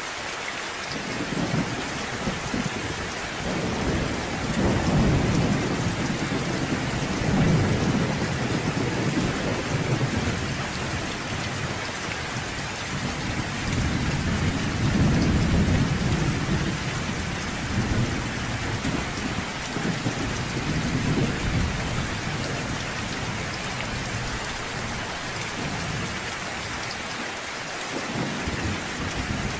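Steady rain with rolling thunder. Two long, low rumbles swell and die away under the constant patter, one from about a second in to about ten seconds, and a second from about thirteen to twenty-two seconds.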